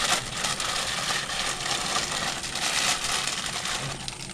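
Plastic bag crinkling and rustling as it is pulled off and crumpled by hand, a dense crackle of many small irregular clicks.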